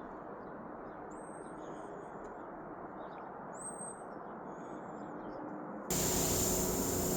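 Small birds chirping, short high calls with quick upward slides, over a steady low background rumble. About six seconds in, a much louder steady machine noise with a low hum cuts in abruptly.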